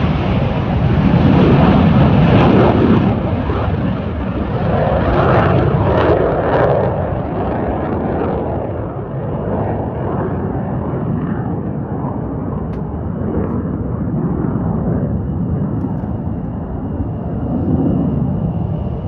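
Jet aircraft taking off: a loud rumbling jet roar, strongest in the first few seconds, that loses its higher hiss and settles to a lower, steadier rumble as the aircraft moves away.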